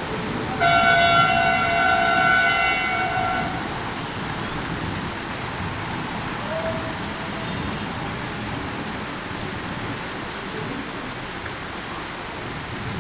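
Steady rain falling on the surface of a pond. Near the start, a horn sounds one long steady-pitched blast of about three seconds.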